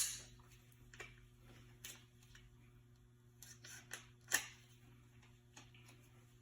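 Light clicks and taps of brake parts and tools being handled, a handful of separate ticks. The sharpest comes right at the start and another about four seconds in, over a faint steady hum.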